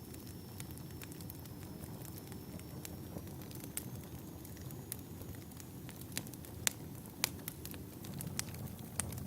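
Wood fire in a fireplace crackling: a steady low rustle of flames with scattered sharp pops and snaps, the loudest pair about seven seconds in.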